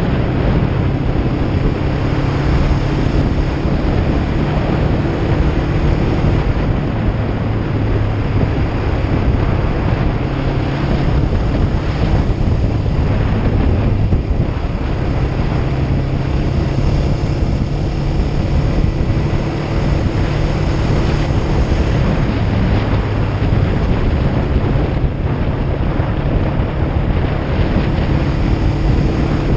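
Kawasaki Ninja 500 parallel-twin engine running while riding, its pitch dropping and rising again several times as engine speed changes. Heavy wind noise on the microphone lies over it throughout.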